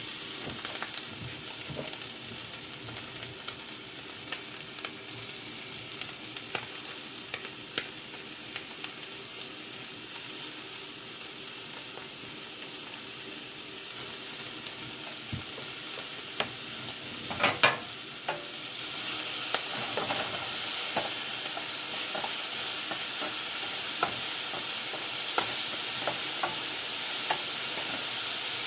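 Chopped onion, garlic and red and green bell pepper sizzling in a pot with browned smoked sausage, stirred with a utensil that scrapes and taps the pot now and then. There is a louder clatter a little past halfway, and soon after it the sizzle grows louder.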